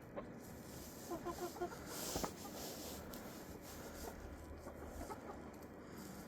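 Hens clucking softly. A quick run of four short clucks comes about a second in, with a few scattered clucks later. A single light knock sounds a little after two seconds.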